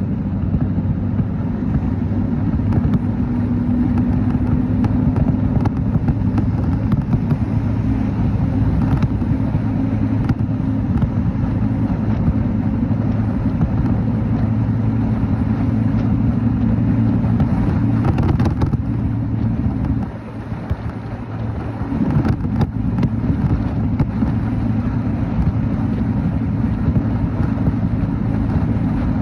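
Motorcycle engine running steadily while riding, with road and wind noise on the microphone; the engine note drops briefly about two-thirds of the way through, then picks up again.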